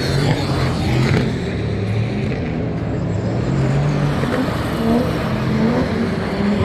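GT race car engines running at speed, a continuous loud engine note whose pitch rises and falls as cars accelerate and pass.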